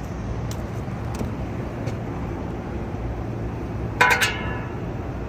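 Rooftop unit's condenser fan being spun by hand to check the motor for seizing: a few light clicks, then a brief metallic ringing clank about four seconds in, over a steady low rumble.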